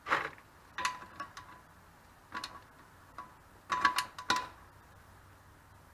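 Socket wrench working the steel drain plug back into the oil reservoir of a 1999 Honda 400EX ATV: scattered sharp metallic clicks and clinks in small groups, loudest about four seconds in.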